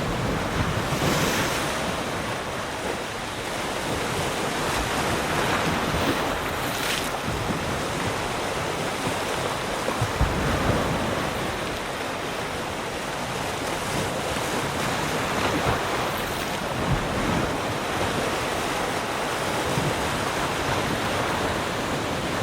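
Sea surf: waves breaking and washing up the shore in a continuous wash, swelling every few seconds. Wind rumbles on the microphone.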